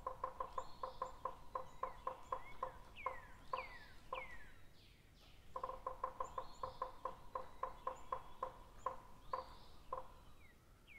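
Birds calling: fast runs of short pulsed notes that pause briefly about four seconds in, mixed with downward-sliding whistles and high chirps.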